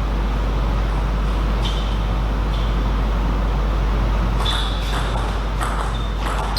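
Table tennis ball being struck and bouncing: a run of quick, sharp clicks in the second half, over a steady low hum.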